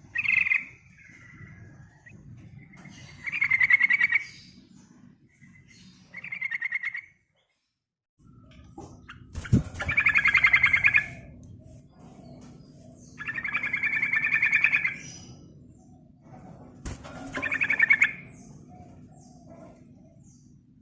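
Sooty-headed bulbul (trucukan) singing: six loud chattering phrases of about a second each, with short gaps between them, over a faint low hum.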